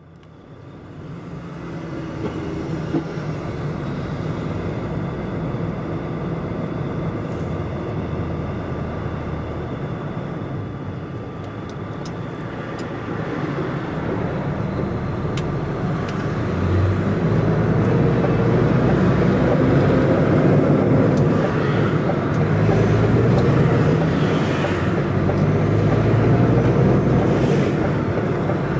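DAF XF105.460 truck's six-cylinder diesel engine running as the lorry drives, fading in at the start and growing louder about halfway through.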